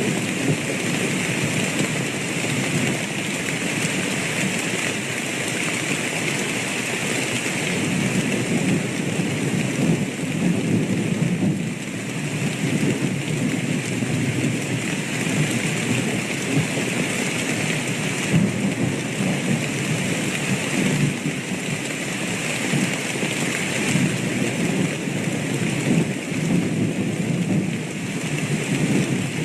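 Steady heavy rain with rolling thunder rumbling at times through it.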